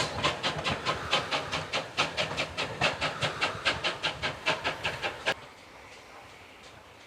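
A GWR steam tank locomotive working hard, its exhaust beats coming evenly at about four a second with steam hiss. The sound cuts off suddenly after about five seconds, leaving only faint background.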